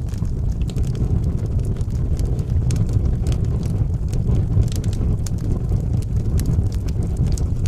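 Wood fire burning in a fireplace: a steady low rumble of flames with frequent sharp crackles and pops scattered through it.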